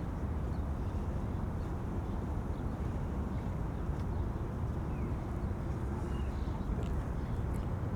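Wind buffeting the microphones as a steady low rumble, with a few faint bird chirps above it.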